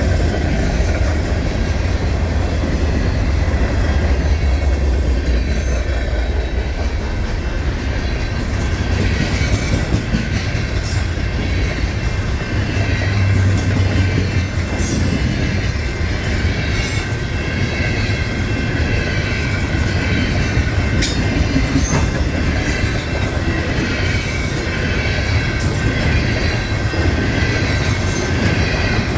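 Freight cars of a long manifest train rolling steadily past, with a low rumble, wheels clicking over rail joints and thin squealing from the wheels.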